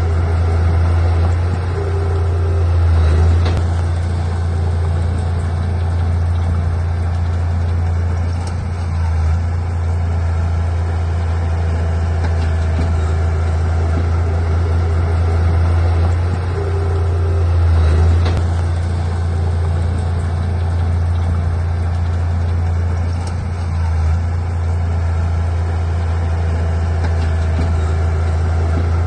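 Heavy diesel engine of earthmoving machinery running steadily, with a low drone that swells briefly twice, about 3 and 18 seconds in, along with a few sharp clanks.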